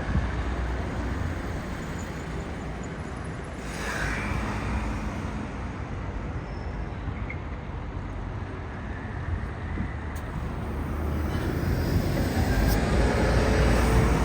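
Street traffic with buses and trams: a steady road rumble, a short hiss about four seconds in, and a vehicle drawing closer and getting louder over the last few seconds, with a rising motor whine.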